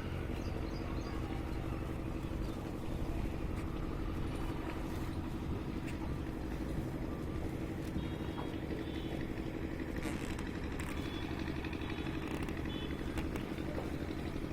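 An engine or motor running steadily, a low rumble with a constant hum.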